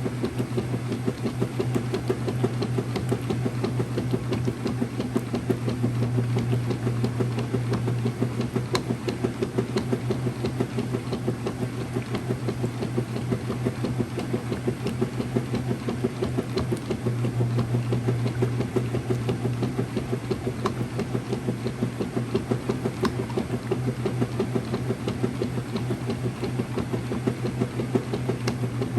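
Early-2000s Whirlpool direct drive washing machine running, a steady motor hum under a fast, even rhythmic churning.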